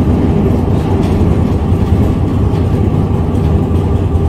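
Vintage tram running along the street, a steady low rumble of motor and wheels on the rails heard from on board.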